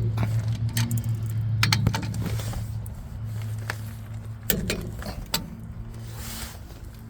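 Metal clicks and clinks of a wrench and socket on the drive shaft's flange bolts as they are torqued to 75 ft-lbs, heard over a steady low hum.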